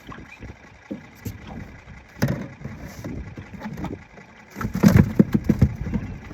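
Wind buffeting the microphone in gusts on an open jon boat, an uneven low rumble that swells briefly about two seconds in and more strongly for about a second near the end.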